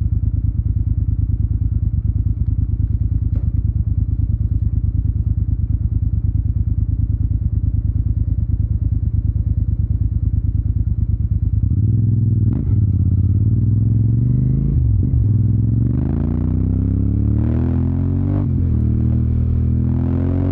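Yamaha TDM 900 parallel-twin engine with an Akrapovic exhaust idling with a steady low pulse, then pulling away: the note rises through the gears, dipping at two gear changes before climbing again.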